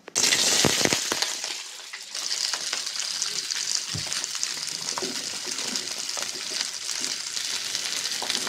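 Sliced ivy gourd (tindora) hitting hot oil in a kadai: a sudden loud sizzle as the pieces go in, settling into a steady frying hiss, with green chillies added to the frying near the end.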